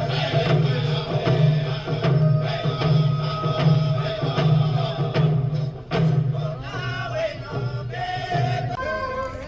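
Music with a heavy, steady bass beat playing on a car stereo inside the cabin; the bass beat drops out near the end.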